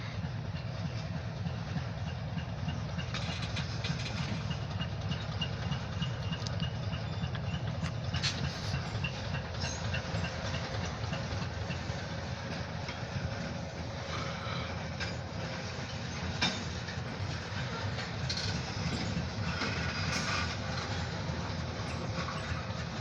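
Short diesel-hauled freight train of empty hopper cars rolling past: a steady low locomotive rumble with scattered wheel clicks over the rail joints. A thin high squeal sounds for several seconds a few seconds in.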